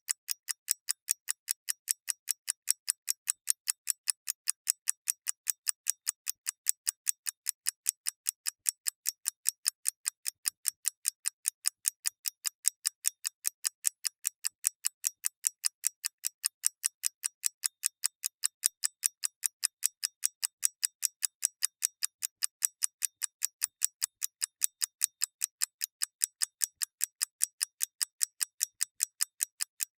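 Clock ticking steadily: quick, evenly spaced, sharp dry clicks, several a second, with silence between them.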